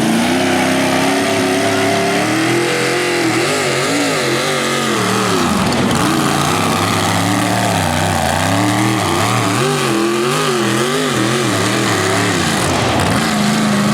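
Pulling tractor's engine under load during a pull, its revs steady at first, then surging up and down repeatedly from about three seconds in before settling near the end: an engine that runs when it wants to and may cut off during the pull.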